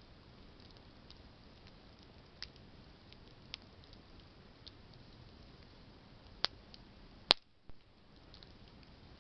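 Campfire of burning branches crackling: a few sharp, scattered pops over a faint low hiss, the loudest pop about seven seconds in.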